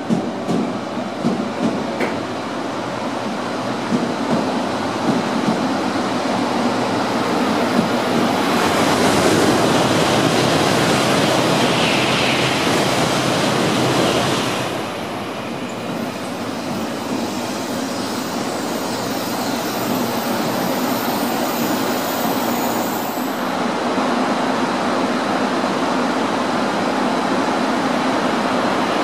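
Shinkansen bullet trains running through the station: a continuous rushing of wheels on rail and air, loudest from about eight to fourteen seconds in, then easing, and building again near the end as another train comes through. A few sharp wheel knocks sound in the first seconds.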